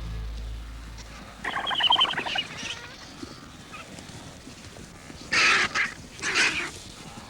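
Music fades out at the start. Birds then call harshly: a quick chattering call about one and a half seconds in, then louder rasping squawks from about five to six and a half seconds in.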